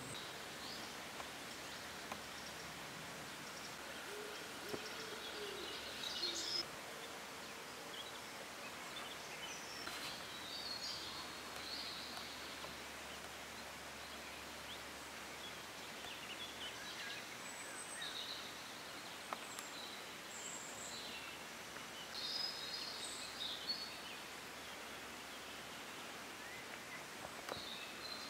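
Evening riverside ambience: scattered short bird chirps and calls over a faint steady background hiss.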